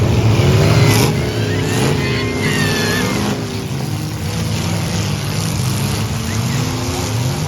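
Demolition derby car engines running, their pitch rising and falling as they rev.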